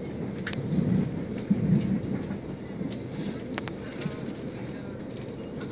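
Passenger train running, heard from inside the carriage: a steady low rumble of wheels on track, with louder swells about a second in and a few sharp clicks.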